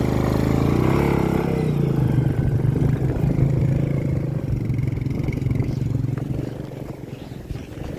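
Royal Enfield Meteor 350's single-cylinder engine revving up over the first second or so, then running steadily under load, easing off slightly near the end.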